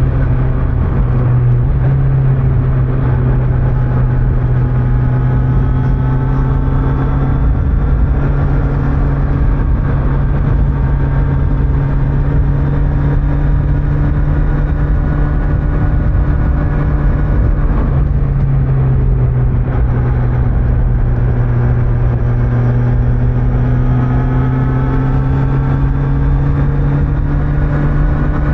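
Kawasaki Z900's inline-four engine with stock exhaust, heard from the rider's position while cruising at steady revs over constant wind and road rumble. The engine note eases slightly at first and climbs gently in the second half.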